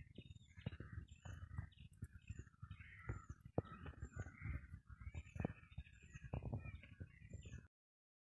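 A bird calling with a short high chirp repeated about every second, over other faint bird calls and the knocks and rustle of someone moving through leafy plants. The sound cuts off suddenly near the end.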